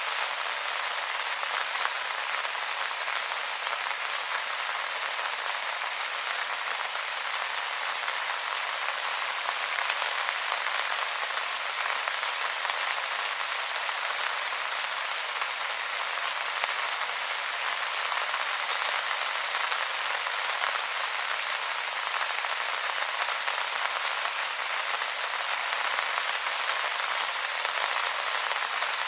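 Steady rain falling on wet leaves: a dense, even patter of many small drops, bright and hissy with no low rumble.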